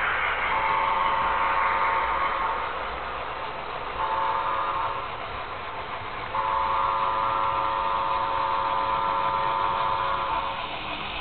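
Sound-decoder signal from an HO-scale model locomotive's speaker: a chorded horn or whistle blown three times, long, short, then a long one of about four seconds, over the steady running noise of the layout.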